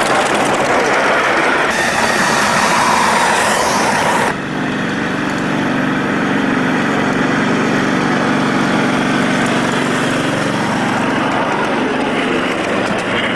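Small engine running steadily, with a loud rushing noise over it for the first four seconds that cuts off abruptly.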